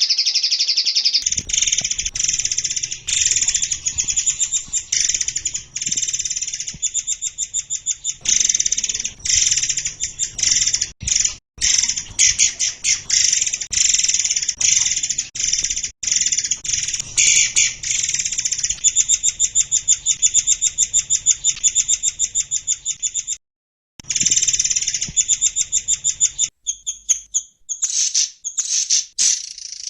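Songbird song from a masteran training recording: a fast, nearly unbroken stream of sharp, high repeated notes and rough trills. It breaks off briefly about 23 seconds in and turns to scattered short phrases near the end.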